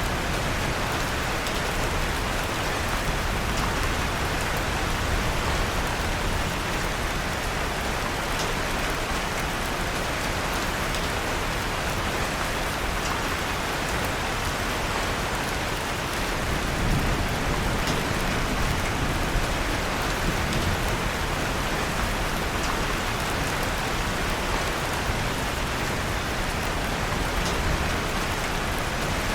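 Steady, even rain, with a few faint, scattered crackles from a wood fire in a fireplace.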